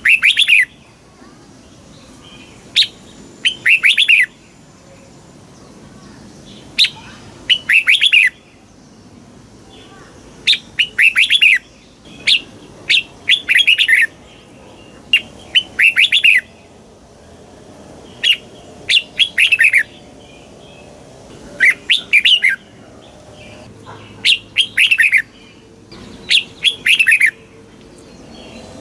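Red-whiskered bulbul singing: short phrases of quick, bright chirping notes, repeated every two to three seconds.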